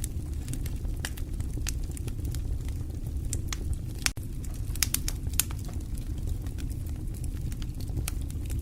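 Burning wood fire crackling: irregular sharp pops and snaps over a steady low rush of flames, with a momentary dropout about four seconds in.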